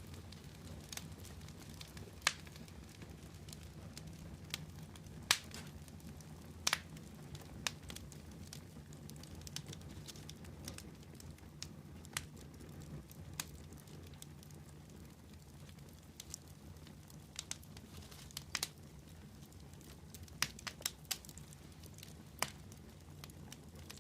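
Wood fire burning with a low steady rumble and scattered sharp crackles and pops, a few of them loud.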